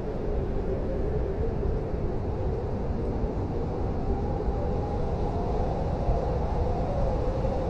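Blizzard wind blowing steadily: a deep rumble with a wavering howl that drifts up a little in pitch about halfway through.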